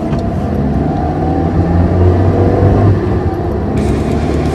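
Car engine sound effect dubbed over a toy car, running and revving, its pitch rising and falling. A hiss joins near the end.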